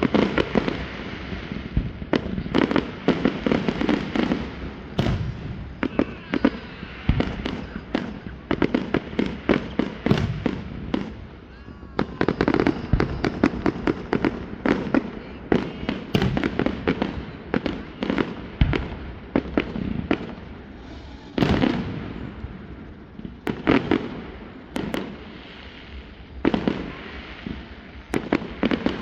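Fireworks display: a continuous, irregular run of bangs and crackling bursts from exploding fireworks, echoing after each burst, with heavier clusters about a third of the way in and again past the two-thirds mark.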